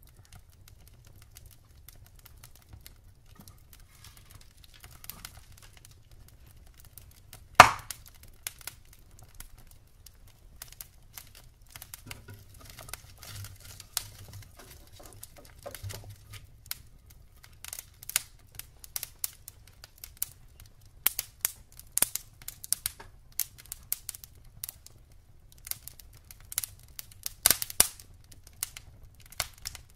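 Wood fire in a fireplace crackling: burning logs give off irregular sharp pops and snaps. One loud snap comes about a quarter of the way in, and the crackles come more often in the second half.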